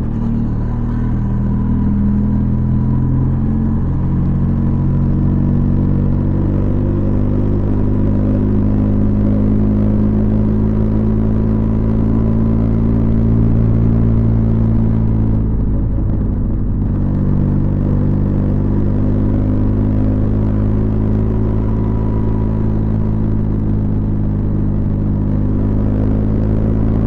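Benelli TRK 502X's 500 cc parallel-twin engine running steadily through its stock exhaust, with a brief dip in the sound about sixteen seconds in.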